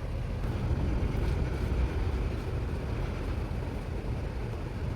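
Steady low rumbling background noise with no distinct knocks or clicks.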